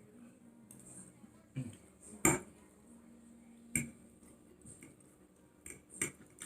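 Cutlery clicking against a dish, a handful of short sharp clicks, the loudest a little after two seconds in.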